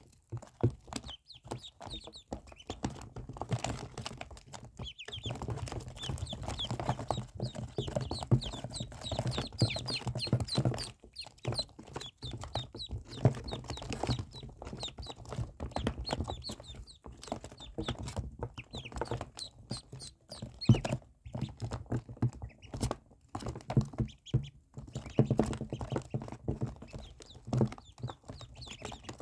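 Ducklings peeping: many short, high chirps in quick succession, mixed with frequent small clicks and knocks.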